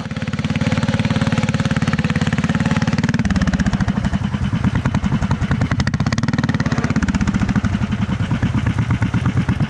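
A small tractor engine running with a steady pulsing beat, coming up loud right at the start and growing deeper from about three seconds in.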